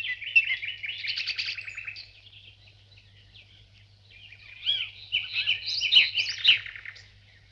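Small birds chirping and twittering in quick trills, in two bouts: one over the first two seconds, then another from about four seconds in until near the end, over a faint steady low hum.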